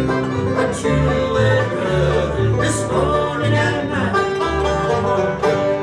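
Bluegrass band playing the closing bars of a song live: banjos picking over guitar, fiddle and a walking bass line.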